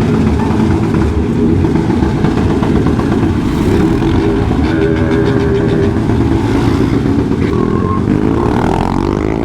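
Motorcycle engines running loud and steady, with a rise and fall in engine pitch near the end.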